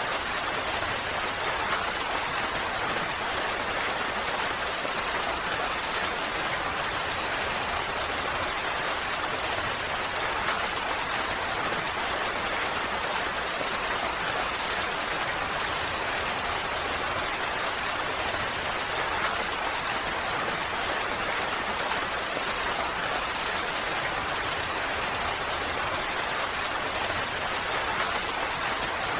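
Steady rainfall: an even hiss of rain with scattered drops pattering on surfaces.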